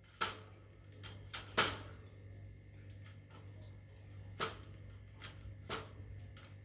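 A series of irregular sharp clicks and taps, about eight over several seconds, over a steady low hum.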